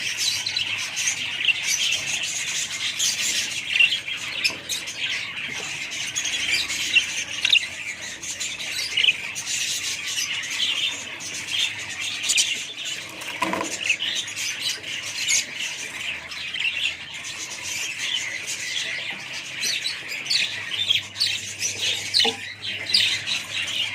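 A group of small pet parrots chattering and squawking, with many overlapping high chirps that never let up.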